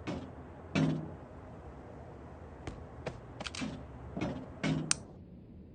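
Small toys being handled and set down: a string of about eight light clicks and knocks at uneven intervals, the loudest about a second in and again near the end.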